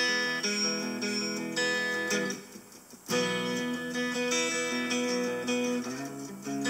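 A guitar played through a Harley Benton DNAfx GiT multi-effects processor preset, strumming a series of chords. The chords break off briefly a little before halfway through, then the playing resumes.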